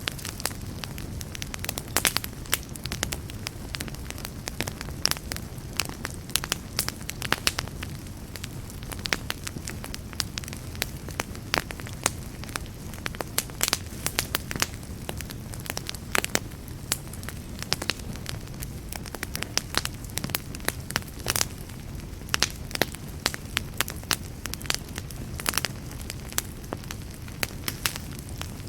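Campfire crackling, with frequent sharp irregular pops and snaps over a steady low rumble of burning wood.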